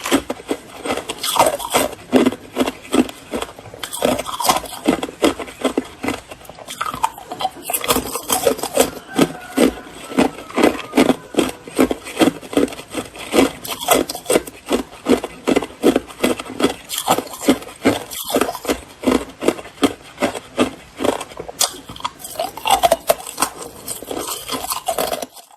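Hard white ice being chewed close to the microphone: a rapid, continuous series of crisp crunches and cracks.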